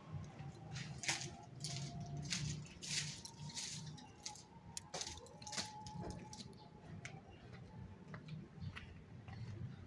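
Irregular light clicks and small rattles, a few each second: a caged canary moving about and pecking in its cage rather than singing, over a steady low hum.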